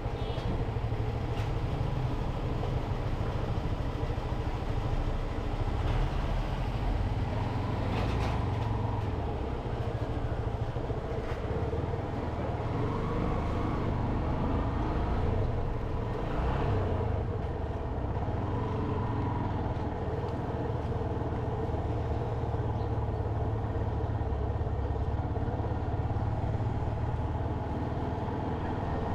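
Motorcycle engine running steadily while riding, a continuous drone that stays even throughout.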